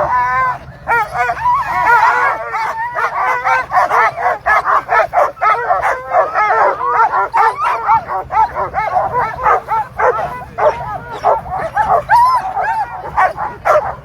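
A hooked-up team of Alaskan husky sled dogs barking, yipping and howling all together, the excited clamour of dogs eager to run before a race start.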